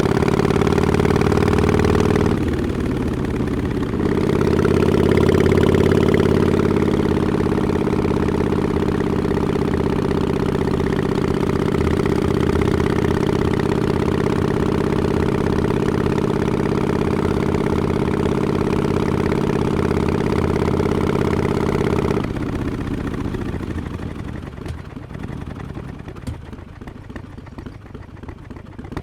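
Harley-Davidson XL1200X Forty-Eight's air-cooled 1200 cc V-twin running through Vance & Hines Short Shots exhaust with quiet baffles, a steady low engine note with a brief dip about two seconds in. A few seconds before the end the engine note drops away and the sound fades, then the engine picks up again at the very end.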